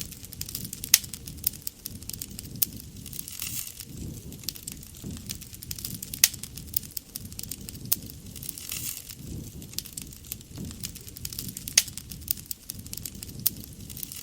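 Wood fire crackling and popping, with sharp snaps scattered all through and the two loudest pops about a second in and near the end.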